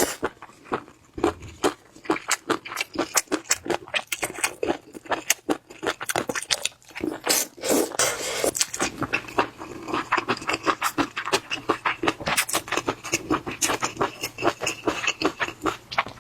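Close-miked eating of marinated shrimp: a rapid, irregular stream of wet smacking, crunching and chewing clicks, with a few longer slurping smears.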